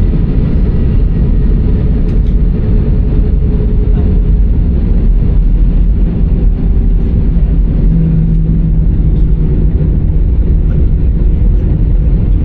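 Steady low rumble inside an Airbus A319 cabin as the jet taxis in after landing, its engines at idle. A low hum sits under the rumble and grows stronger for a couple of seconds about eight seconds in.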